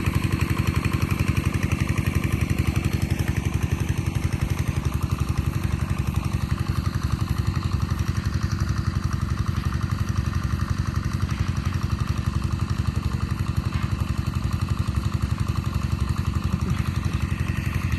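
A small engine running steadily at an even speed, with a fast, regular putter.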